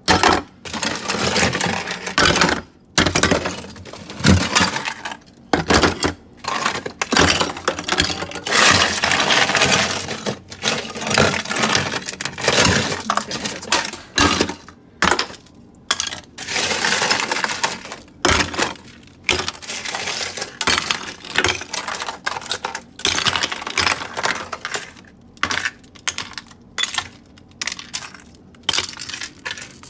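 A pointed knife chipping and scraping at a thick layer of ice built up inside a Samsung refrigerator, with irregular scrapes, cracks and clinks of ice pieces breaking off. The buildup is the fault the owner is trying to get fixed.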